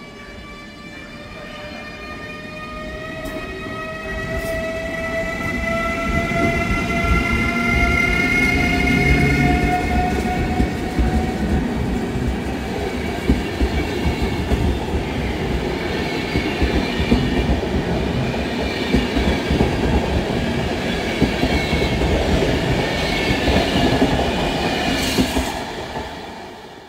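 Siemens EU44 electric locomotive pulling a passenger train away: its traction converters whine in several tones that climb slowly in pitch over the first ten seconds or so. Then rumble and clatter from the coaches' wheels build up as the carriages roll past.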